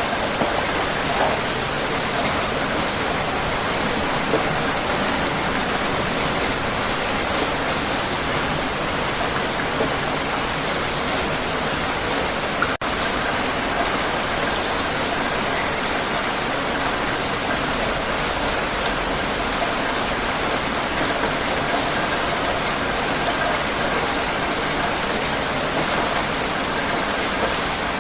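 Heavy rain falling, a steady even hiss with faint scattered drop sounds, broken by a momentary dropout about halfway through.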